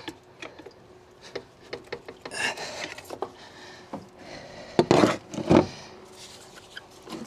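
Hand tools clinking and scraping against metal parts in an engine bay: scattered sharp clicks, a short stretch of scraping about two and a half seconds in, and a few louder knocks about five seconds in.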